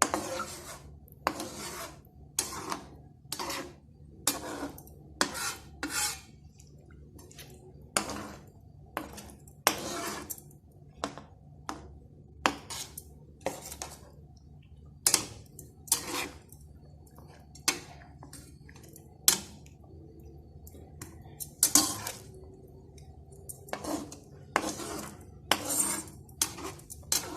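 A cooking utensil scraping and clinking against a pot while stirring chicken in a red coconut-milk gravy, irregular strokes about once a second, over a steady low hum.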